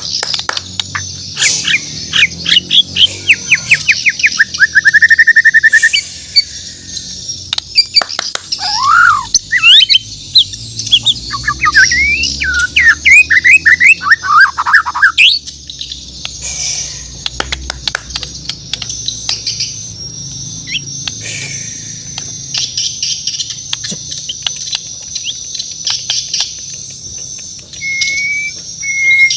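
Murai batu Borneo (shama) singing close up: bursts of rapid sweeping notes and a fast trill in the first half, then quieter scattered clicks and two short whistles near the end, over a steady high hiss.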